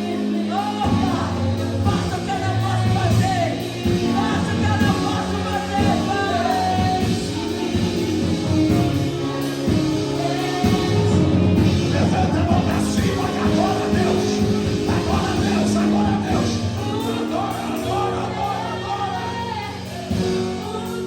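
Worship music with singing: a band plays while voices sing, with a beat that comes in about a second in and drops out near the end.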